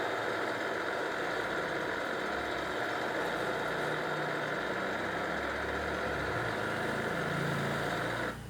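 Engine of a heavy work machine running steadily with a loud rushing mechanical noise over it. The noise cuts off suddenly near the end, leaving a low engine hum that fades away.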